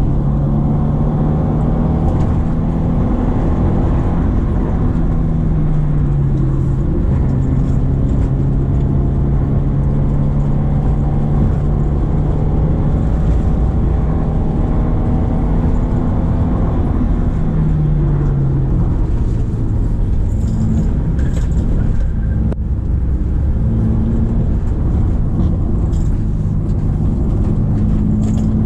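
Subaru Impreza XV's 2.0-litre flat-four boxer engine pulling uphill under load. Its note holds steady, dips in pitch about six seconds in and again a little past halfway, then climbs again near the end.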